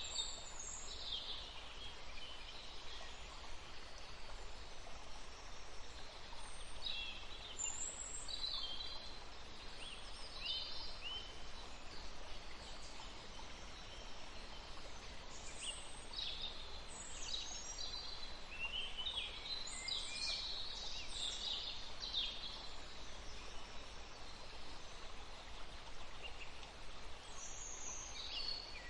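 Small birds chirping in scattered bursts of short high calls over a steady faint hiss, busiest around the middle and again near the end.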